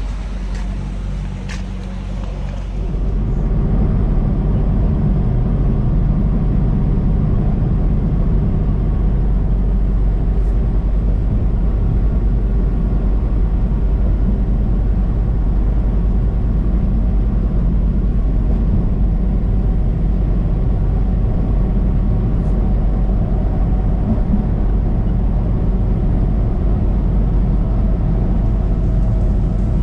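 Semi-truck's diesel engine and road noise heard from inside the cab: a steady low rumble that gets louder about three seconds in as the truck pulls away, then runs evenly.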